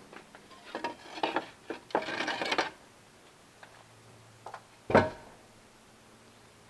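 Handling and work noises: scattered knocks, a short rough scrape about two seconds in, and one loud thud about five seconds in.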